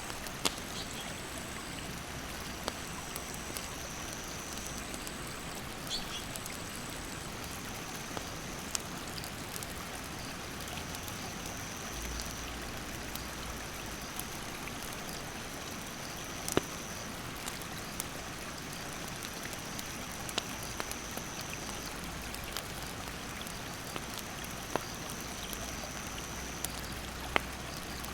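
Stream water rushing steadily, with sharp pops and crackles from a wood campfire scattered through it. Insects call with a high, steady trill in long stretches that stop and start.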